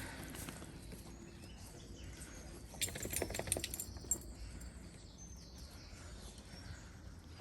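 Dalmatian puppies scuffling over a new toy: a burst of rustling and clicks about three seconds in, over a low, quiet background.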